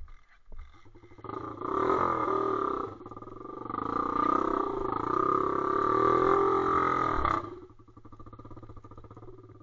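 Pit bike's single-cylinder engine revving hard for about six seconds, pitch rising and falling with the throttle and briefly easing off once, then dropping suddenly to a quiet idle.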